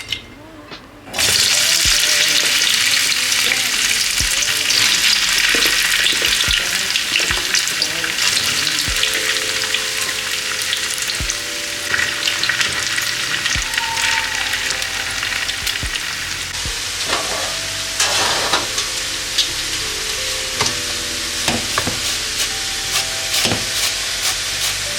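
Food frying in a hot pan, a loud steady sizzle that starts suddenly about a second in, with scattered clicks of a utensil stirring against the pan.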